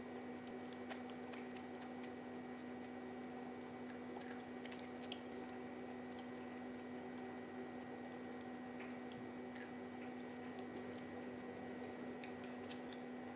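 Steady low hum with a few faint, scattered clicks and soft taps, several close together near the end.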